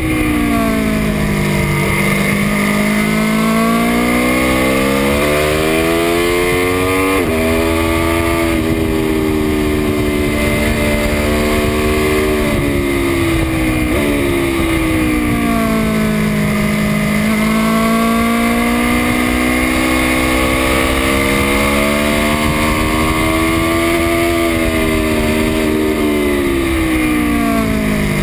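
2018 Aprilia Tuono V4 RR's V4 engine lapping a race track: the revs climb and fall again and again through the gears, with a few sudden jumps in pitch at gear changes. Wind rushes past the onboard microphone throughout.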